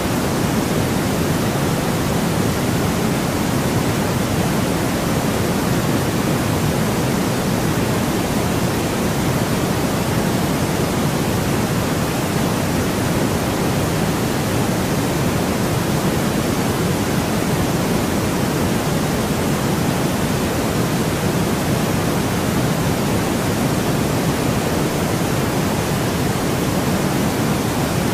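Continuous white noise from a sleep-sound track: an even, unchanging hiss, fuller in the lower range than the top, with no events or changes.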